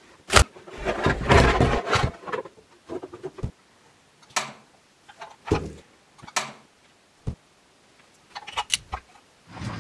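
Irregular clicks and knocks of hard toy pieces being handled, with a short stretch of denser clatter near the start and quiet gaps between.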